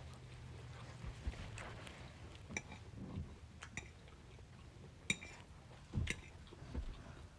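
Close-miked chewing of food, with a few sharp wet mouth clicks and smacks scattered through, the loudest about five and six seconds in.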